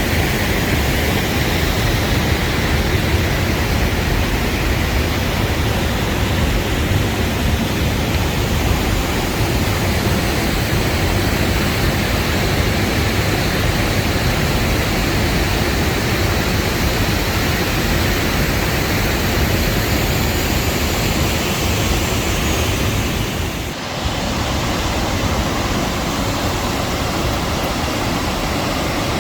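A waterfall's steady rush of falling water, loud and even, with a brief dip in level near the end.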